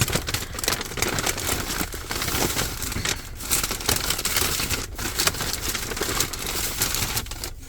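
A shopping bag crinkling and rustling as a candle is dug out of it, with a steady run of irregular crackles.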